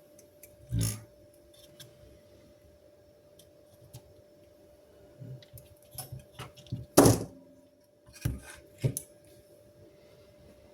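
A few knocks and light clicks of objects being handled and set down, the loudest about seven seconds in, over a faint steady hum.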